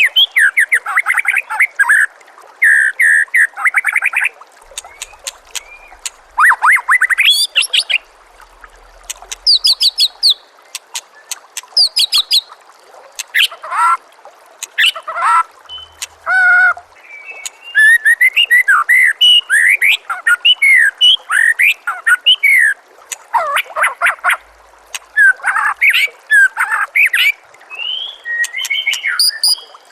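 White-rumped shama (murai batu) singing loud, varied phrases: clear whistled glides and rapid high-pitched trills, in bursts separated by short pauses. A faint steady trickle of water runs underneath.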